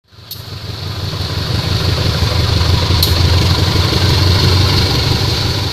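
A train passing close by: a loud, steady low rumble with a noisy hiss above it, building up over the first second. Two short clicks come through it, near the start and about halfway.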